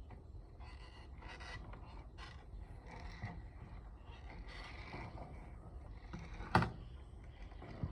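Irregular mechanical creaking and scraping, with one sharp click about six and a half seconds in.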